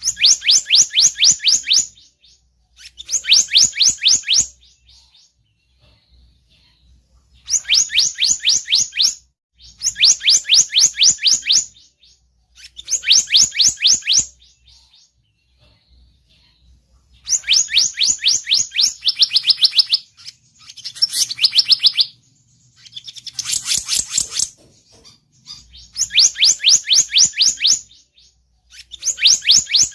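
Lure recording of the bird called selendang biru in Indonesia: bursts of a fast, high trill, each about two seconds long, repeated over and over with short pauses between them.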